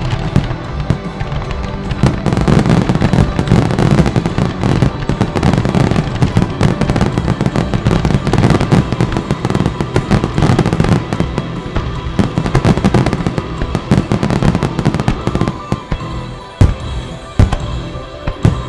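Fireworks display in a dense barrage of rapid crackling bangs over music, thinning to a few single heavy booms near the end.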